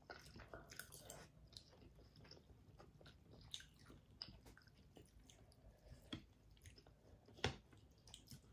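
Faint close-miked chewing and slurping of noodles and seafood, with scattered small clicks and one sharper click near the end.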